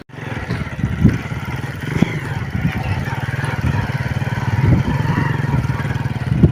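A vehicle's engine running steadily, with occasional knocks and rattles.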